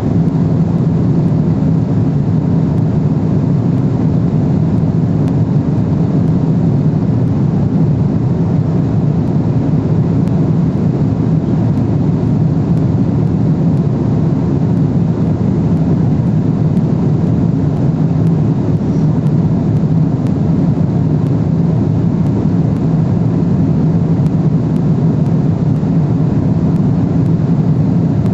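Steady low rumble of cabin noise inside a Boeing 777-300ER airliner at cruise, the engines and rushing airflow blended into one unchanging drone.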